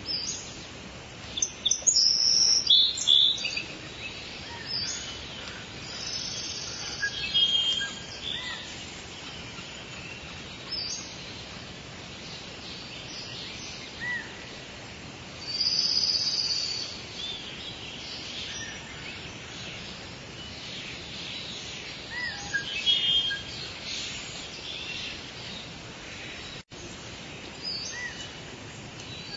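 Steady rain hiss with small birds chirping and calling over it in scattered bursts, the busiest about two to three seconds in and again around sixteen and twenty-three seconds. The sound drops out for an instant near the end.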